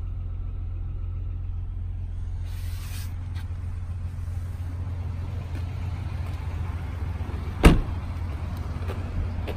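Lexus RX 350's 3.5-litre V6 idling with a steady low hum, heard from inside the cabin. A little over halfway through, a car door shuts with a single solid thump.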